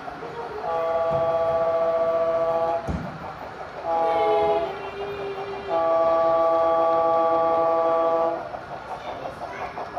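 Model train's multi-note horn sounding a long, long, short, long sequence, the grade-crossing signal, its last long blast ending near the end. After that comes an engine's steady pulsing, with a single knock about three seconds in.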